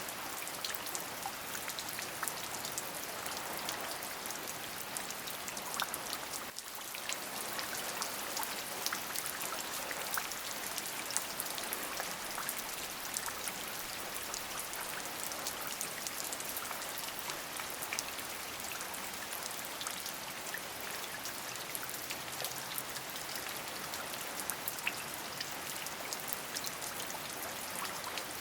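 Steady rain falling, with many small drop ticks on a surface over an even hiss. The sound dips briefly about six and a half seconds in.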